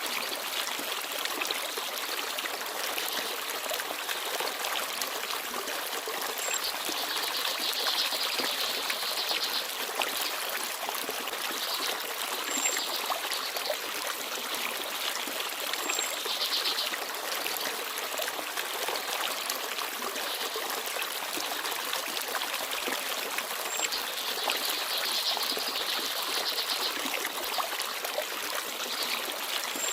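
Forest stream babbling steadily, with short, high chirps of small birds every few seconds.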